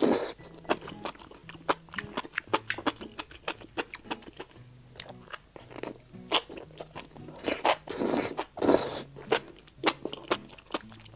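Close-miked eating of enoki mushrooms soaked in red chili oil: rapid wet clicks and smacks of chewing, with a few longer slurping sounds, the loudest around eight seconds in.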